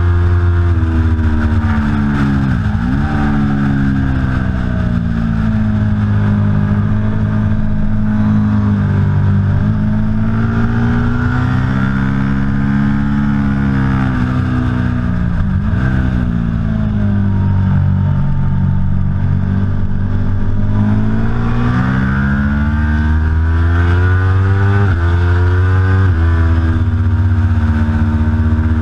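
Aprilia Tuono V4 Factory's V4 engine running hard on track. The revs rise and fall continuously, with quick dips at gear changes.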